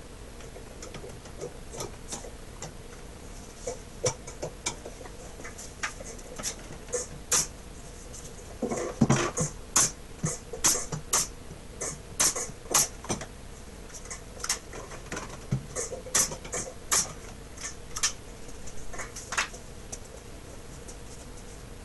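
Hand work on a wooden chest while gluing and securing loose boards: a run of irregular sharp clicks and light taps, several a second at times, with a fuller clatter about nine seconds in.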